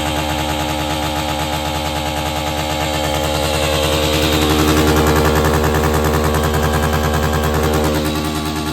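Dirt bike engine running at steady revs, rising in pitch and loudness for a few seconds in the middle, then dropping back about eight seconds in.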